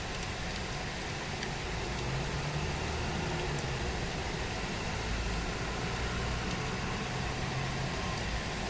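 Steady rain hiss, with a low engine hum coming up about two seconds in and holding until near the end.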